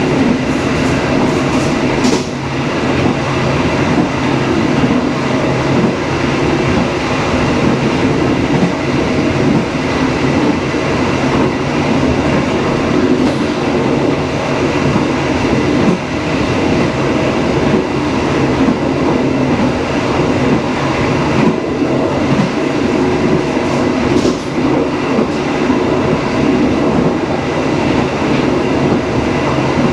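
Passenger train running along the line: a steady rumble of wheels on rails with a few sharp clicks from the track.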